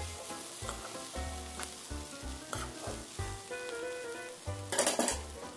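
Noodles and cabbage sizzling in a hot pan as they are stir-fried and tossed with a silicone spatula and tongs, with a louder rush of noise about five seconds in. Soft background music plays underneath.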